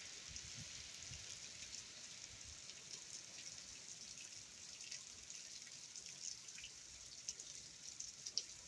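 Hurricane Ian's rain falling steadily as a faint, even hiss, with individual drops ticking now and then.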